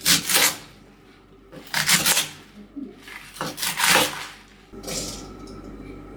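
Kitchen food-preparation handling: four short, noisy swishes about a second and a half apart.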